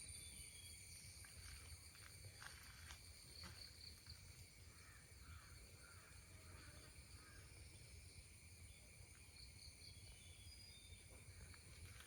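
Quiet outdoor ambience: faint, steady, high-pitched insect trilling that holds several even tones, with a few faint ticks.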